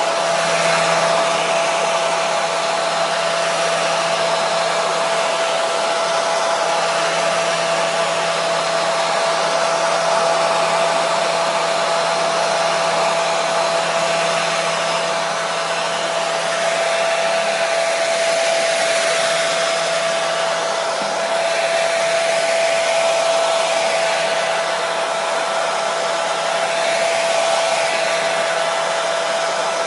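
Hair dryer running steadily: a continuous rushing of air with a steady hum-like whine from its motor, used as white noise.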